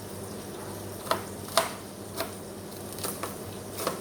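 Kitchen knife chopping cabbage on a cutting board, five separate strokes at an uneven pace over a steady low hum.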